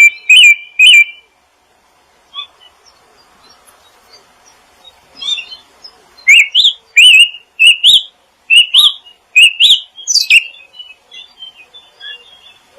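Small songbird singing a loud series of short, rising chirps, a few at first, then after a quieter stretch of faint twittering a run of about eight chirps roughly half a second apart, trailing off into soft twittering near the end.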